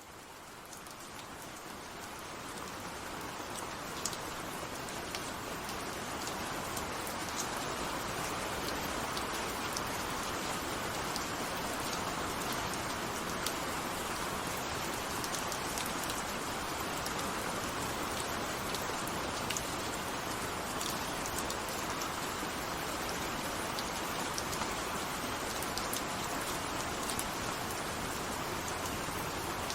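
Steady rain falling, an even hiss with many small drop ticks on a surface, fading in over the first several seconds and then holding level.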